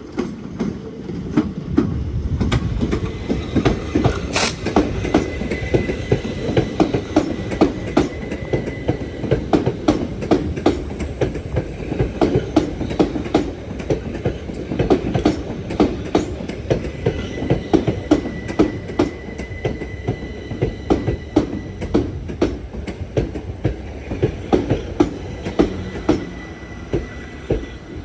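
A train running past with a constant clickety-clack of wheels over rail joints. A faint high steady tone comes and goes twice.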